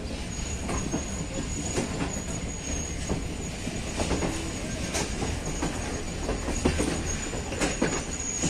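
Passenger train running through a station yard, heard from on board: a steady rumble of the carriage, wheels clicking sharply over rail joints and points about once a second, and a thin high whine that drops out now and then.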